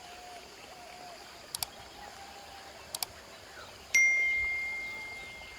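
Two quick double clicks, then a single bright bell-like ding that rings out and fades over about two seconds, over faint bird calls.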